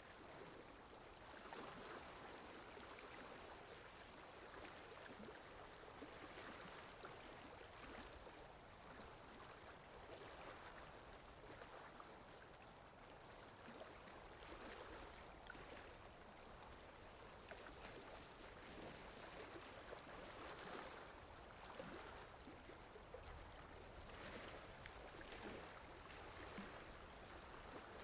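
Steady rain falling, a soft even patter that swells and eases every few seconds.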